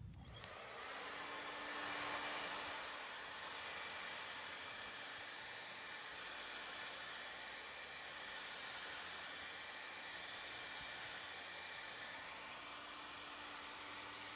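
Hair dryer blowing steadily, drying the glue under a vinyl patch; it comes on about half a second in.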